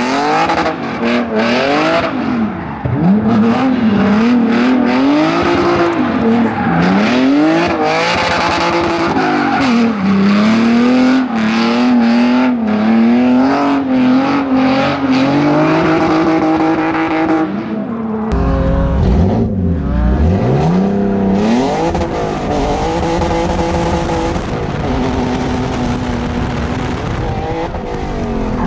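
Hyundai Genesis Coupe drifting with its exhaust removed: the engine revs up and down again and again, with tire squeal. About two-thirds of the way through, the sound switches to inside the car and becomes heavier and lower.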